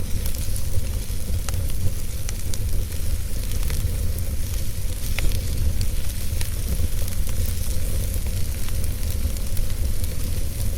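Wood fire burning in a fireplace: a steady low rumble and hiss, with scattered sharp crackles from the burning logs.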